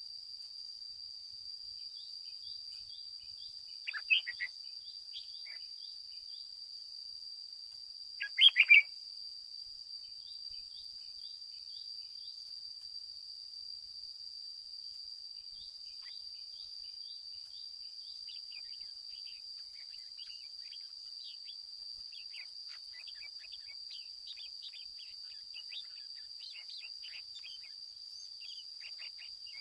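Red-whiskered bulbul giving two short, loud call phrases, about four seconds in and again around eight and a half seconds. Under them runs a constant high-pitched insect buzz, with rows of fast, faint chirps.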